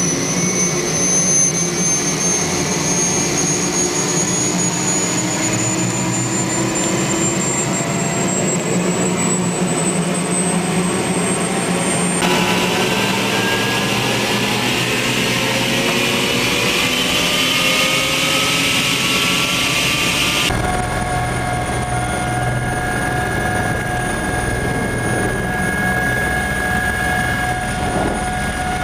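Helicopter turbine engine and rotor running steadily, with a high whine that slowly rises in pitch over the first twelve seconds. The sound changes abruptly twice, about twelve and twenty seconds in.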